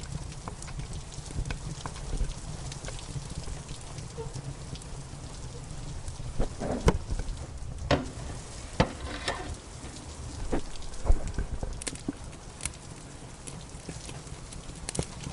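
Steady rain with a wood fire crackling over it: scattered sharp pops and snaps, busiest and loudest around the middle.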